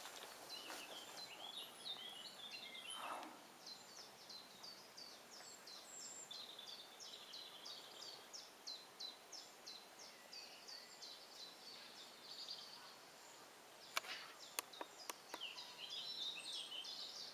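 Songbirds singing in the trees around a pond: one bird repeats a short high note about two or three times a second, with twittering from others. A few sharp clicks come near the end.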